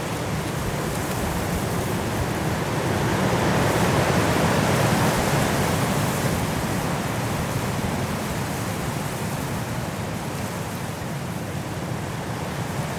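Strong wind blowing through forest trees in a snowstorm, a steady rushing that swells to a gust about four seconds in and eases off again.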